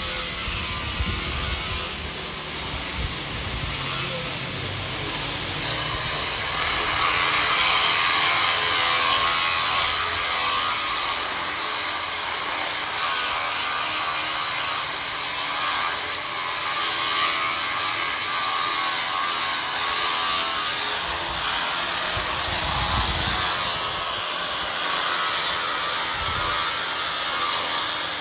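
Power sander running steadily on coralina stone tiles, a continuous grinding hiss with a faint motor whine that grows louder about six seconds in.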